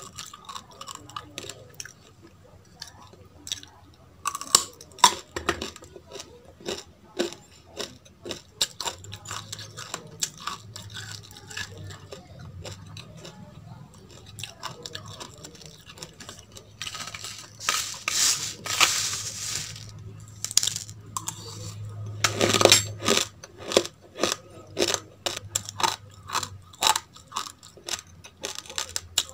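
Close-up crunching and chewing of raw basmati rice and baby carrots, many sharp crisp crunches in irregular runs, with a few seconds of grainy rustling a little past the middle.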